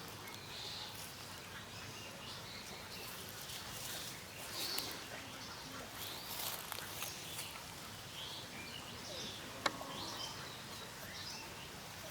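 Small birds chirping and calling in short, scattered notes over a steady outdoor background hiss, with one sharp click about three-quarters of the way through.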